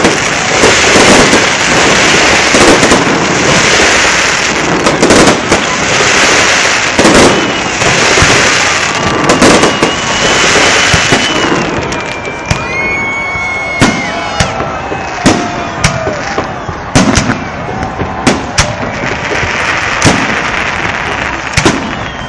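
Fireworks display salvo: a dense run of bangs and crackling, heavier in the first half, with a few whistling tones around the middle.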